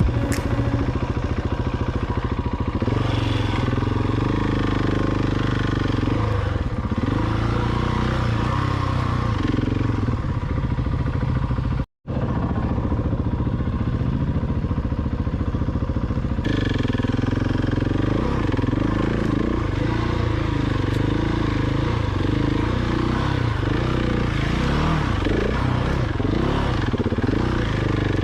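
Adventure motorcycle engine running while riding, its revs rising and falling again and again, with a short break in the sound about twelve seconds in.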